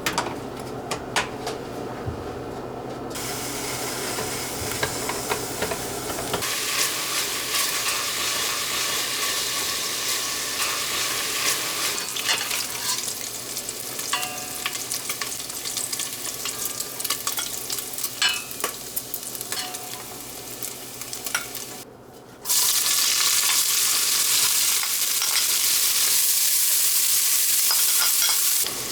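Food frying and sizzling in a pan while a utensil stirs it, with scrapes and small taps. The sizzle turns louder and steadier in the last six seconds or so.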